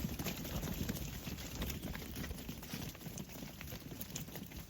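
Hooves of a group of sheep clattering and scuffling as they move off, many irregular knocks over a low rumble.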